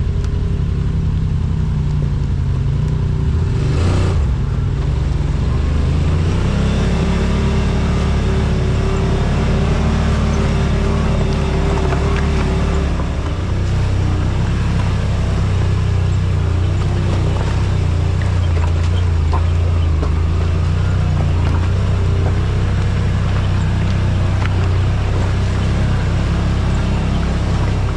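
Yamaha RMAX side-by-side's engine running under way on a trail, its pitch shifting a few times as the throttle changes, with a steady rush of tyre and drivetrain noise and a single sharp knock about four seconds in.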